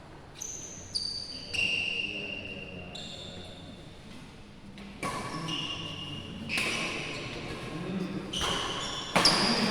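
Badminton play in a large echoing hall: a string of sharp racket-and-shuttle strikes and shoe sounds on the court, roughly one a second, each leaving a high ringing echo. Players' voices come in during the second half.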